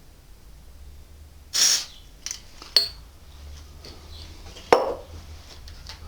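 A short hiss of WD-40 aerosol spray about one and a half seconds in, followed by small metal clicks and a clink from the padlock, then a louder dull knock near the end.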